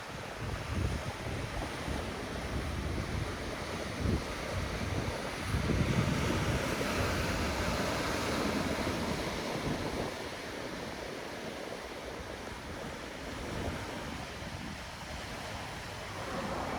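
Wind rushing over the microphone, with uneven gusts buffeting it. There is no engine note.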